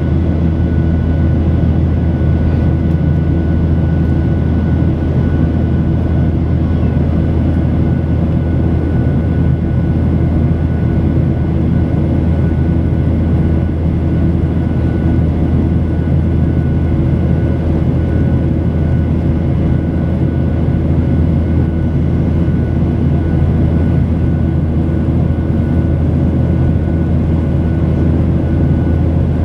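Boeing 737-800 with CFM56-7B jet engines, its engines and rushing air heard as a steady loud drone from inside the cabin after takeoff. A deep rumble runs under a few steady high tones, unchanging throughout.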